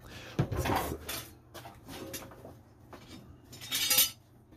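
Plastic and metal parts of a refrigerator ice crusher and dispenser unit clicking, knocking and scraping as they are handled and pried apart. Scattered short clicks, with the loudest, a scraping rattle, about four seconds in.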